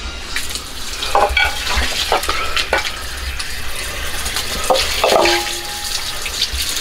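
Tap water running and splashing as blanched hocks are rinsed by hand in a glass bowl, with scattered knocks of meat and hands against the bowl and a short ringing clink of the glass about five seconds in.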